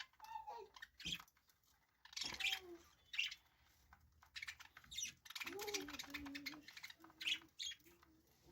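Budgerigars chirping and chattering in short, scratchy calls with some warbled notes.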